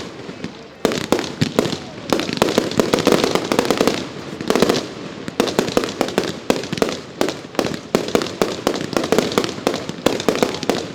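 Fireworks show: a rapid, almost continuous run of bangs with crackle between them, after a brief lull just after the start.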